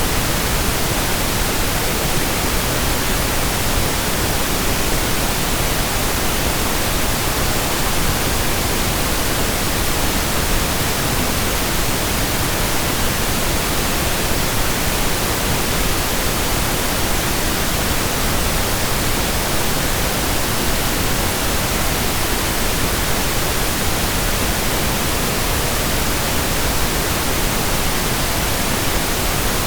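Steady, unchanging pink noise, a soft even hiss spread across all pitches.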